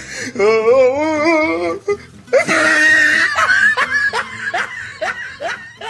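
A laughing voice, probably a dubbed-in laugh sound effect. It starts with a long wavering, warbling laugh, has a loud shrill burst about two and a half seconds in, and ends in a run of short falling 'ha' syllables.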